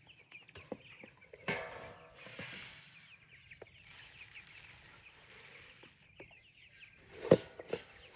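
A flock of young Cornish Cross meat chickens peeping constantly, with scattered sharp knocks and one loud knock near the end.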